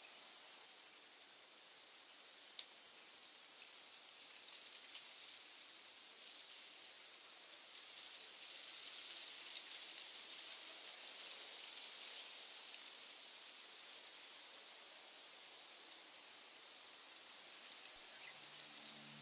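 A chorus of stridulating insects: a steady, high-pitched chirring with a fast pulse that drops out briefly near the end.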